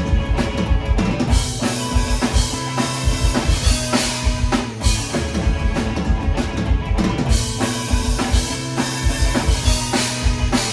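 Live band playing: a drum kit with kick and snare hits drives a fast beat under sustained held chords.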